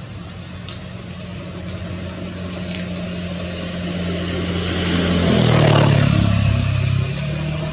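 A motor vehicle's engine growing louder as it passes, loudest about five to six seconds in, its pitch dropping as it goes by. Over it, a bird gives a short high call about once a second.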